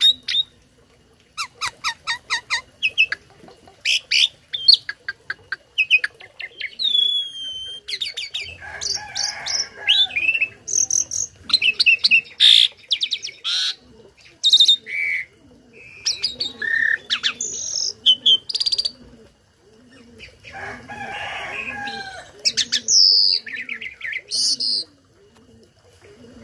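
A tame starling (jalak) singing a varied, loud song of whistles, rising and falling glides, rapid click trains and harsh chattering, full of mimicked calls. In the second half a low note repeats about every half second underneath.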